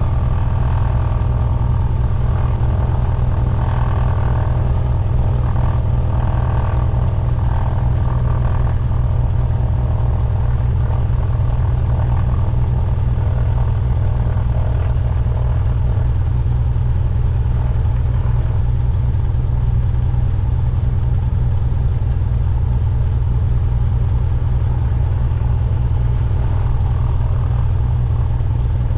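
Cessna 172's piston engine and propeller running steadily, a loud continuous drone with no marked change in revs.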